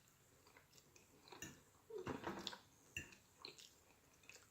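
Faint close-miked chewing of a mouthful of lobster pasta salad, with a few soft wet mouth clicks and smacks.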